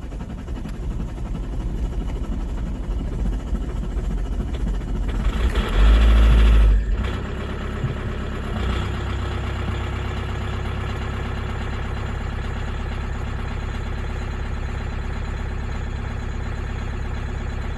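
Toyota 1CD-FTV 2.0 litre four-cylinder common-rail turbodiesel idling just after a cold start at −23 °C on new glow plugs. It runs unevenly at first, has a brief loud surge about six seconds in, then settles into a steady idle.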